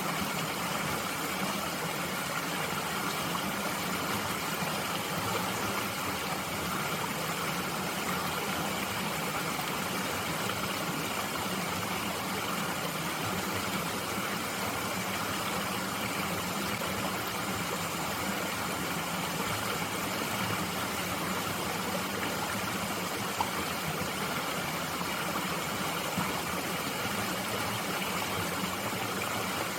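Mountain stream flowing steadily over rocks, an even, unbroken rush of water.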